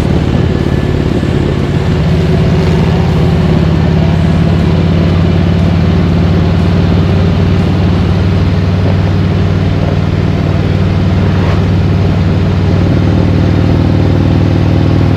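Harley-Davidson V-twin motorcycle engine running at steady road speed, with wind and road noise. The engine note shifts slightly about two seconds in and again near the end.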